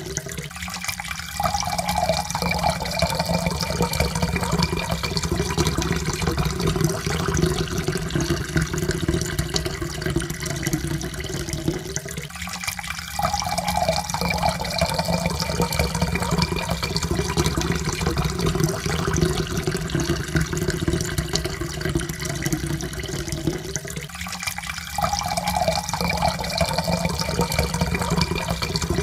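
Water pouring steadily into a cup, with a faint pitch that rises slowly as the cup fills. The pour starts over about every twelve seconds, three times in all.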